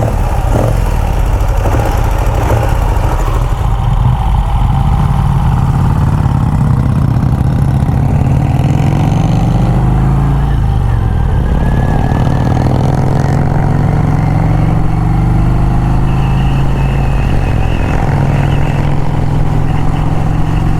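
Vincent Rapide's V-twin motorcycle engine running, its pitch rising and falling about halfway through as the engine is revved and shifted.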